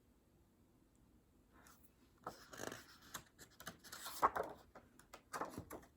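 Paper rustling as the pages of a picture book are handled and turned, a run of irregular short scrapes and flutters.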